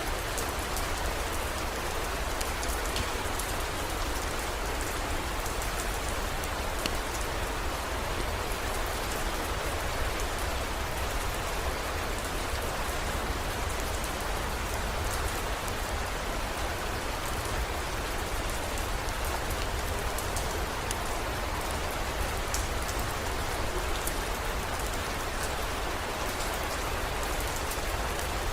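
Steady heavy rain, with scattered drop ticks over a constant low rumble.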